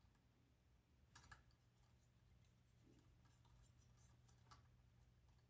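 Near silence: room tone with a low hum and a few faint clicks of small kit parts being handled, about a second in and again near the end.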